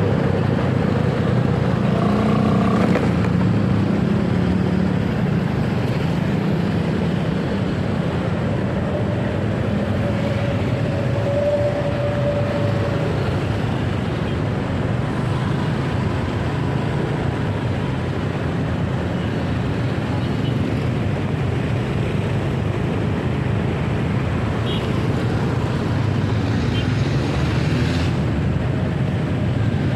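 Steady road and traffic noise from a motorcycle on the move: engine, tyre and wind rush with no let-up.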